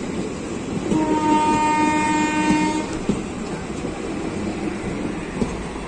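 Passing train running with wheels clacking over rail joints, and a locomotive horn sounding once for about two seconds near the start.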